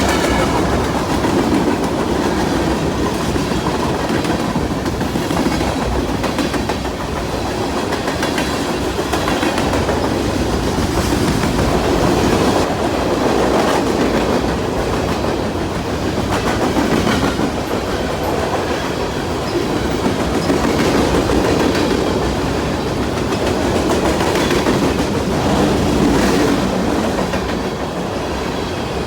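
A train rolling past close by: a steady rumble of steel wheels on rail with clickety-clack over the rail joints.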